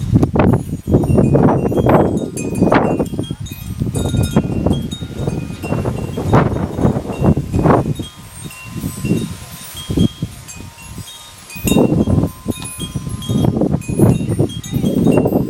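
Wind gusting hard on the microphone, the loudest sound, in uneven surges. Over it, wind chimes ring with scattered short high tones.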